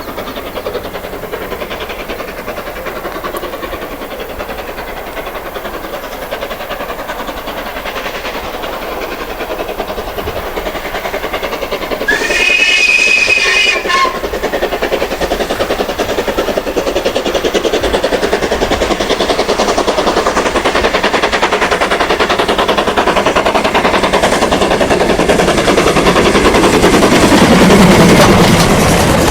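Steam train on a heritage line drawing closer, its running and rattle growing steadily louder, with a whistle of several tones blown once for about two seconds about halfway through.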